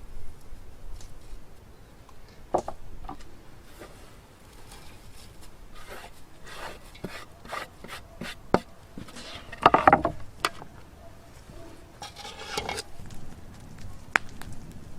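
Irregular knocks, clicks and scraping sounds of food being prepared by hand. The loudest scrapes come about two-thirds of the way through and again a little later.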